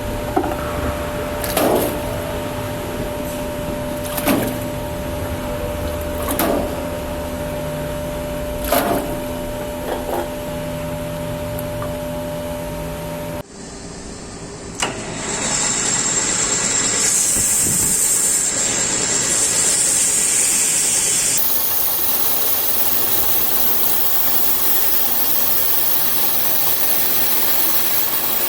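Workshop machine noise: a steady hum with a sharp knock about every two seconds, then, after an abrupt change a little under halfway through, a loud steady hiss that grows stronger past the two-thirds mark.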